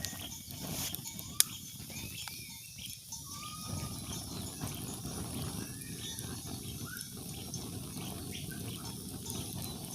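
Short chirping bird calls over a steady low rustling background, with one sharp click about a second and a half in.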